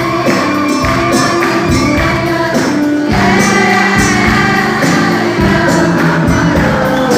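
A choir singing with rhythmic percussion and instrumental backing.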